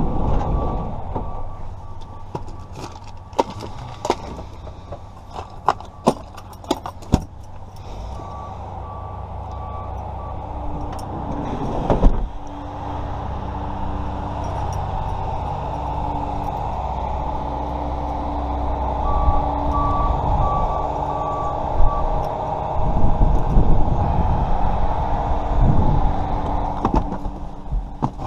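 A motor vehicle idling with a steady low rumble, with short runs of rapid high beeping at the start and again about two-thirds of the way through. Scattered sharp clicks sound, mostly early, with one loud click near the middle.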